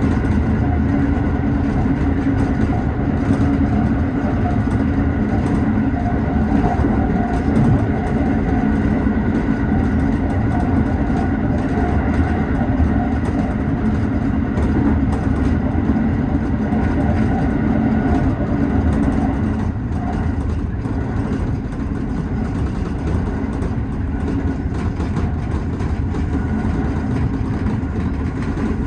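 Tobu 6050 series electric train running at speed, heard from inside the front car: a steady hum of motors and wheels on rail. It gets a little quieter about twenty seconds in.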